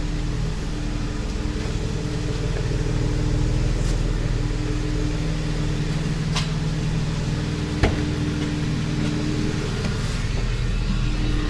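Car engine idling steadily, with a single sharp click about eight seconds in.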